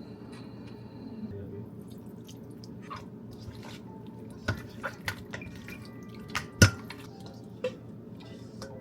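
Water dripping and splashing in a kitchen sink, with scattered small clicks and knocks, the sharpest about six and a half seconds in, over a steady low hum.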